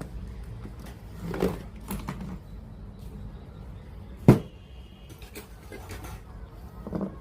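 Scattered clicks and knocks of hands and tools working on a JVC PC-W100 radio cassette player, with one loud sharp click a little past the middle, over a low steady hum.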